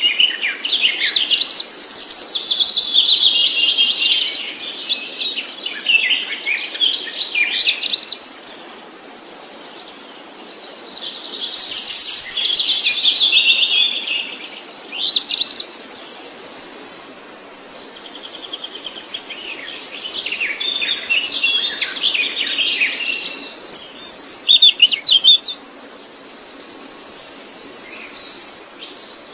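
Songbird song: rapid, varied chirps and trills in phrases a few seconds long, broken by several long, steady, high whistled notes.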